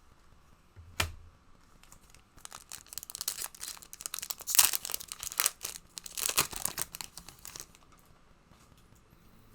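A trading card pack's wrapper being torn open and crinkled, a dense run of crackling tears lasting several seconds, with a single light tap about a second in.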